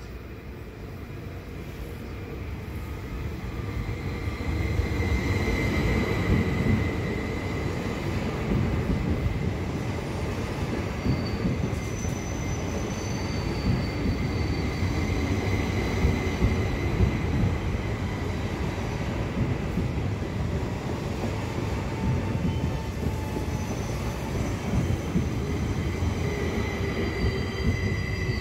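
Train running on the rails: a steady rumble that builds over the first few seconds, with wheel squeal coming and going as thin high-pitched tones.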